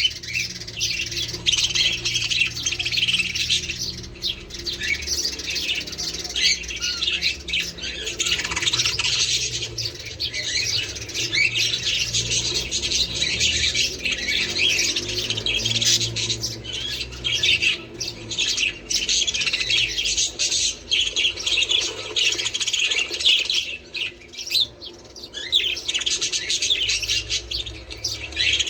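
A flock of budgerigars chattering and chirping, many birds at once without a break, over a steady low hum.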